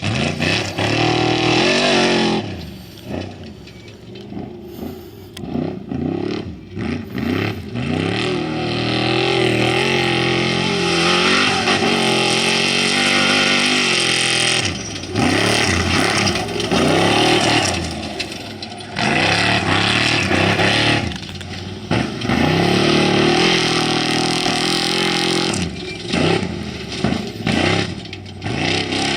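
Off-road race vehicles' engines at full throttle as they pass one after another, the engine pitch climbing and dropping with gear changes. The sound swells and fades several times as each vehicle goes by.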